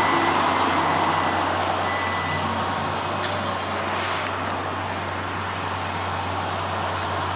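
Steady vehicle noise: a constant low hum under an even hiss, with a couple of faint ticks.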